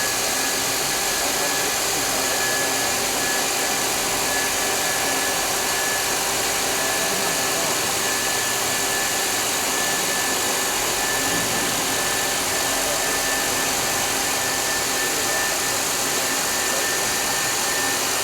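You Ji DSM double-sided milling machine running: a steady hiss with a thin, high whine held at one pitch throughout.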